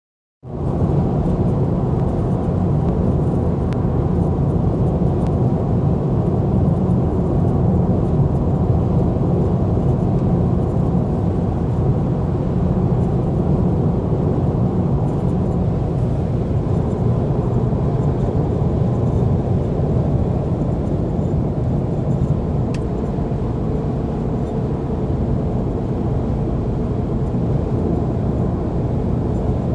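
BMW N55 turbocharged inline-six in an E92 335i coupe running steadily, with the ticking and rattling noise the owner is asking about.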